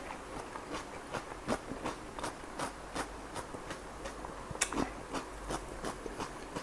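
Chewing of chicken kalmi kebab: a run of short, irregular mouth clicks and smacks, two or three a second.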